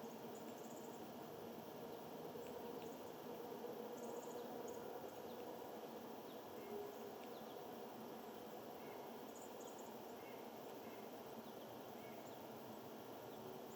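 Faint outdoor ambience with a steady hiss, broken by brief clusters of small, high-pitched bird chirps a few times.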